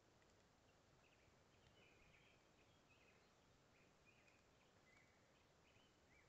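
Near silence, with faint short chirps of small birds repeating about every half second to second.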